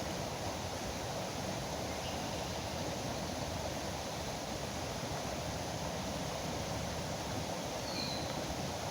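Steady rush of flowing river water, with a brief high bird chirp near the end.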